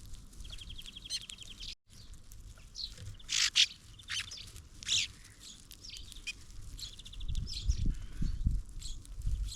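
Small songbirds at a feeder chirping and calling, with quick trills of short repeated high notes and a few louder sharp calls in the middle. The sound drops out briefly about two seconds in, and low thumps come near the end.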